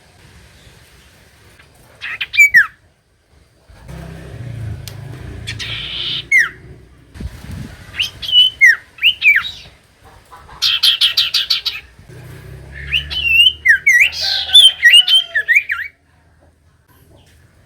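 Common iora singing: sharp chirps and short falling whistled notes, with a fast run of about ten repeated notes in the middle. This is a lure call meant to set other ioras calling.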